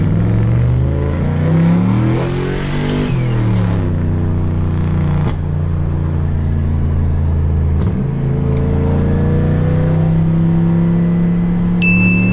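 BMW 540i engine accelerating under load. Its pitch rises, drops at an upshift about three seconds in, holds steady, then climbs slowly again after a brief dip. A short high beep sounds near the end.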